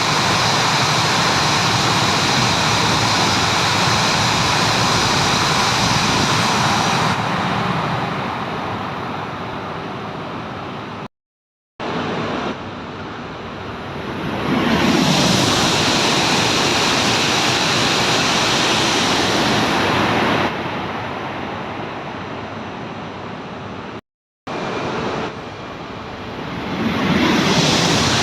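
Tohoku Shinkansen trains passing through a station at high speed without stopping: a loud, steady rushing noise of air and wheels that swells and fades as each train goes by. Two brief cuts to silence split it into three passes.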